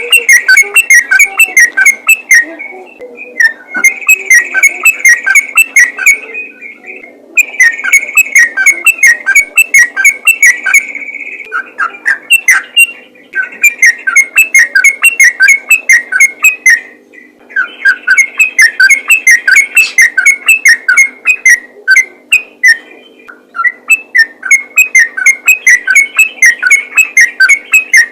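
Sooty-headed bulbul (trucukan) singing loud, fast runs of short whistled notes in "ropel" style, in long phrases broken by brief pauses.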